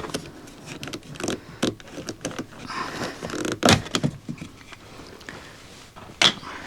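Plastic clicking and scraping as the tweeter grille on a Tesla Model 3 door panel is pried up off its retaining clips, with a sharp snap in the middle and another near the end.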